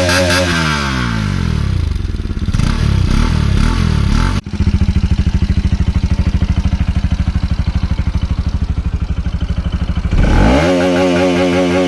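Bajaj Pulsar RS200's single-cylinder engine running with its exhaust removed: the revs fall away over the first two seconds, it idles with a loud pulsing beat, then revs up again near the end and holds high.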